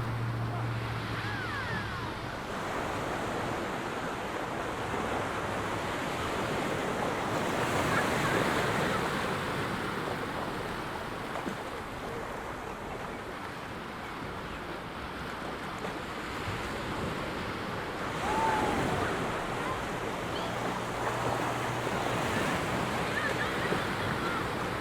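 Ocean surf breaking and washing up on a sandy beach, swelling louder about eight seconds in and again around eighteen seconds, with some wind on the microphone. A low steady hum is there at the start and comes back near the end.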